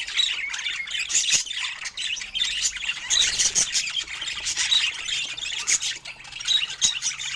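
Several budgerigars chattering and warbling together without a break, a busy stream of quick chirps, clicks and squawks.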